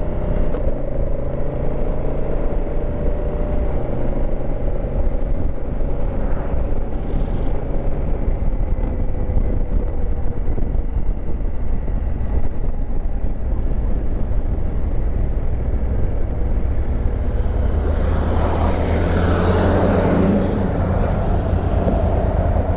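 2019 Honda Africa Twin adventure motorcycle under way, its engine running steadily under dense wind rush on the microphone. An engine tone sinks slowly over the first several seconds, and a louder rush swells for a few seconds near the end.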